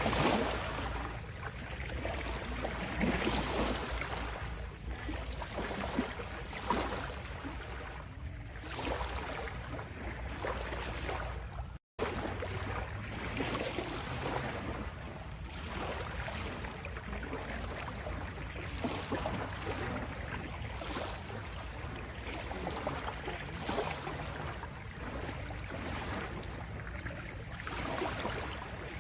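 Small sea waves lapping and rippling at the shore, a continuous wash that swells and eases every few seconds, broken by a momentary dropout about twelve seconds in.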